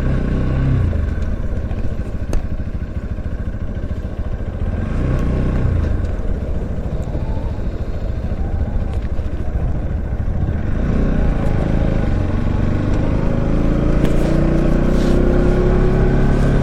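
Motorcycle engine running under way, with wind noise on the microphone. About eleven seconds in, the engine note starts to rise steadily as the bike accelerates.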